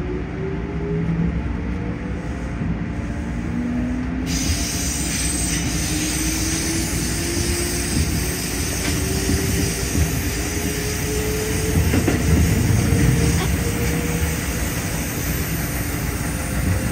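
Keikyu 1500 series electric train with field-chopper-controlled DC traction motors accelerating away from a station. The motor and gear whine rises slowly and steadily in pitch over the wheels' rumble on the rails, heard from inside the car.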